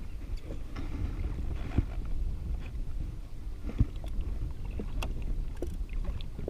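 Water slapping against a drifting jet ski's hull in choppy water, with wind rumbling on the microphone. A few sharp knocks sound about two, four and five seconds in.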